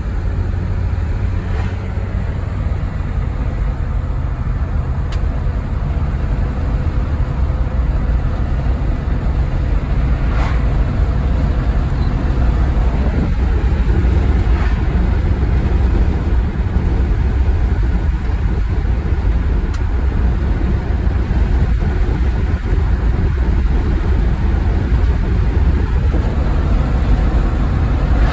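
A car driving, with steady engine and road noise: a low, even rumble with a few faint ticks.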